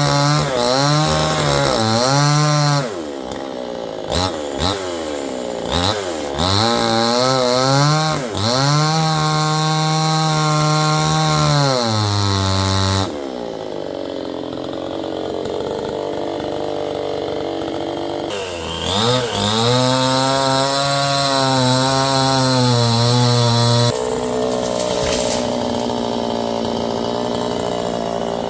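Chainsaw running, revving up and down repeatedly, settling to a quieter idle about halfway through, revving again for a few seconds, then idling near the end.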